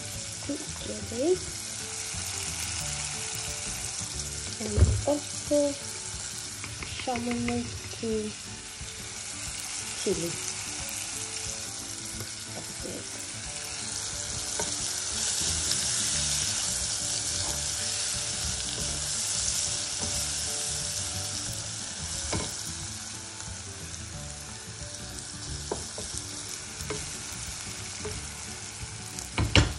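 Sliced bitter gourd and onion sizzling as they fry in oil in a nonstick pan. The sizzle swells for a few seconds midway, and a wooden spoon stirring gives a few knocks and scrapes against the pan, the loudest about five seconds in.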